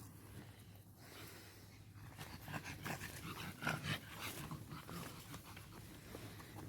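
A dog panting close by, a run of quick breaths starting about two seconds in.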